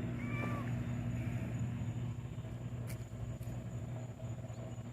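A steady low mechanical hum, with a short faint cat meow just after the start and a couple of soft clicks around the middle.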